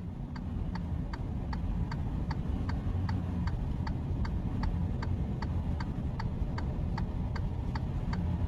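Vehicle turn-signal relay clicking steadily, about three ticks a second, over the low rumble of the engine and road inside the cab.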